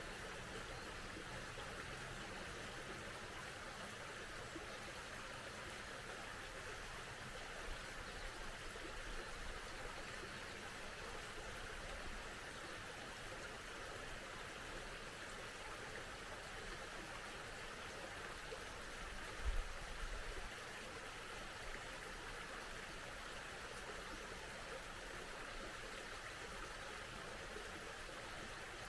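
A small mountain stream flowing steadily, an even rushing of water. About two-thirds of the way through there is one brief low thump.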